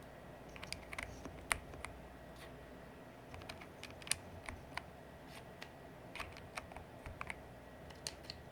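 Keycaps being pushed back onto the switches of an Aula F99 Pro mechanical keyboard: light plastic clicks and clacks at an irregular pace.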